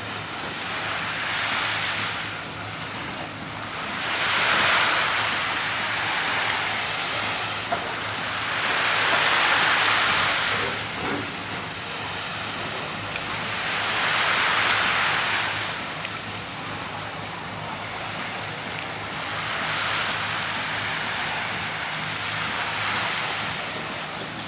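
Sea waves washing in, a rushing surge that swells and fades about every five seconds, over a faint steady low hum.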